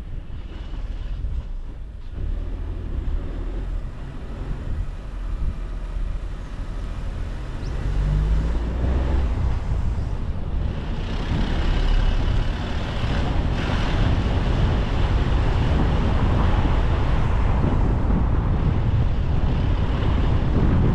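Car driving along a road: low engine and tyre rumble with wind noise, growing louder about eight seconds in and again a few seconds later.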